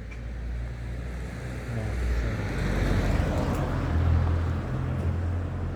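A vehicle passing on the road: engine rumble and tyre noise swell to a peak about three seconds in, then ease off a little.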